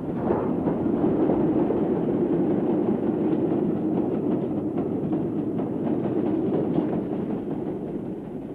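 A train running along the rails: a steady rumble with scattered rail clicks, easing off near the end.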